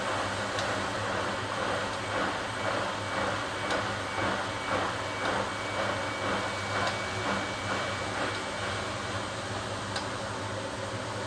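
1980 HUWA Automatic Standard 4 washing machine washing, its drum turning the laundry through the water: a swish about twice a second over a steady hum. The swishing stops a little after eight seconds in.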